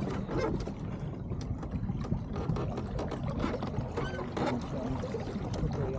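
Water splashing and slapping against the hull of an Elliott 7.4 racing keelboat under sail, with short knocks throughout over a steady low rumble of wind on the microphone. A brief high call sounds about four seconds in.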